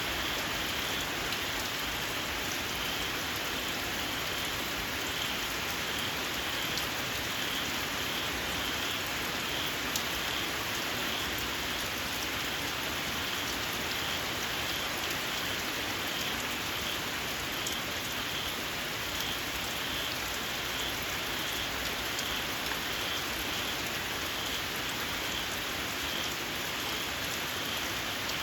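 Steady rain falling, with small frogs giving a shrill, evenly repeated high call.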